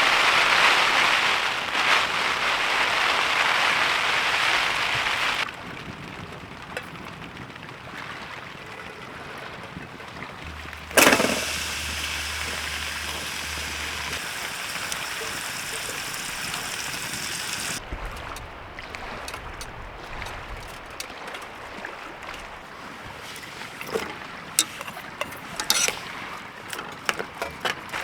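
Storm outside a tent: wind and heavy rain, changing abruptly a few times as short clips are cut together, loudest in the first few seconds. In the last third, irregular sharp ticks sound over the rain.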